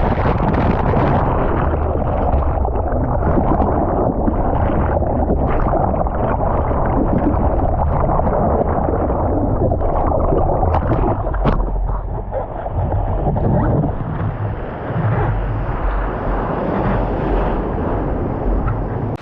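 Breaking surf and water rushing loudly over the microphone, a muffled, continuous churning with a heavy low rumble.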